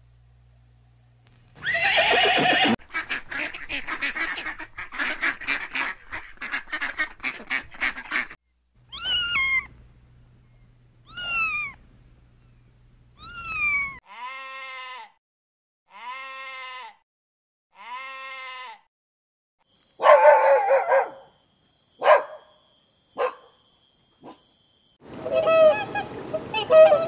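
A string of different animal calls, one clip after another with short gaps: first a fast run of repeated calls, then three drawn-out calls falling in pitch, then three arched calls, then a few shorter mixed calls.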